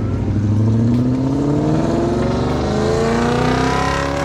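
Car engine accelerating, its pitch rising steadily as it pulls up through a gear.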